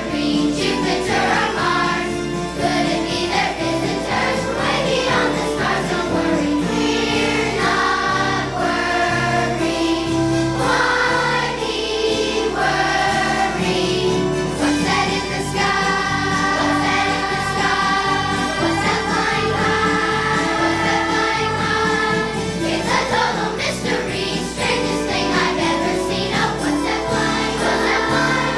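Elementary school children's choir singing a Christmas song with instrumental accompaniment.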